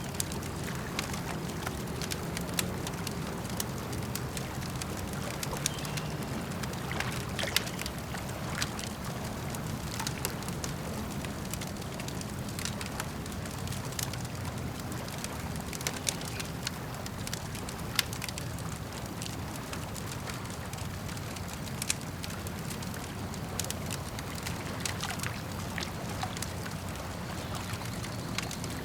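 Campfire crackling, with frequent sharp irregular pops, over the steady low sloshing of lake water lapping.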